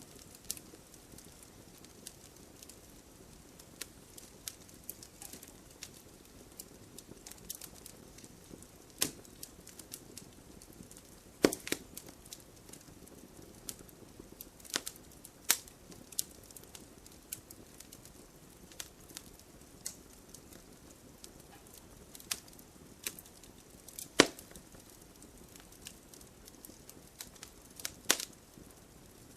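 Wood fire crackling in a fireplace: scattered sharp pops and snaps of burning logs over a faint low hiss, with a few louder pops past a third of the way in, past the middle and near the end.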